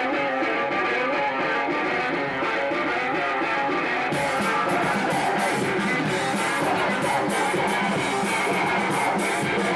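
Live metallic hardcore band: an electric guitar plays alone, then drums and cymbals come in about four seconds in and the full band plays on.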